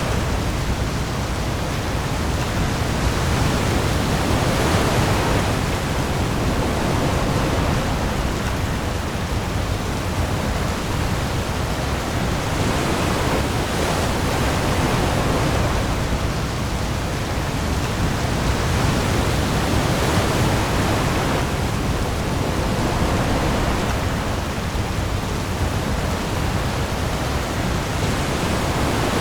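Heavy rain pouring onto the sea in a steady dense hiss, with waves that swell and ease every few seconds and a low rumble underneath.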